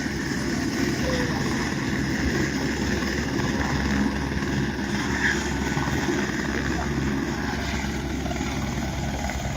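A helicopter running steadily: a constant engine whine over the fast low throb of the rotor.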